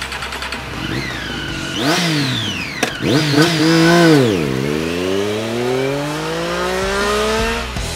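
Triumph Daytona 675's 675cc inline three-cylinder engine pulling away: the revs rise and drop twice with a sharp click in between, then climb in one long steady pull as the bike accelerates off, fading near the end.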